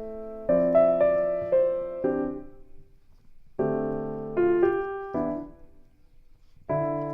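Background piano music: slow phrases of notes and chords that strike and fade away, with two short pauses between phrases.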